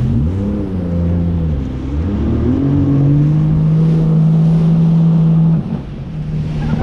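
Jet ski engine running under throttle, its pitch dipping and rising, then held steady for a few seconds. The throttle is eased off suddenly about five and a half seconds in, and the engine picks up again near the end.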